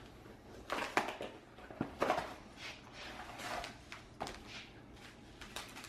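Irregular rustling of parcel packaging being handled and opened, with sharp clicks and knocks.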